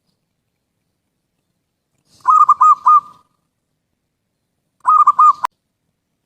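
Zebra dove (perkutut) cooing: two short runs of quick, rolling coo notes, the first about two seconds in and the second near five seconds, which breaks off in a sharp click.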